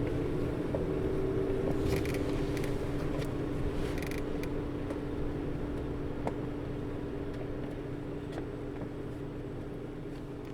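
Onboard running sound of a 2008 PKG-RA274KAN city bus: a steady drone of the diesel engine and its engine-driven coupling fan, which runs all the time on this bus and is loud for the engine speed. The drone slowly gets quieter, with a couple of brief rattles about two and four seconds in.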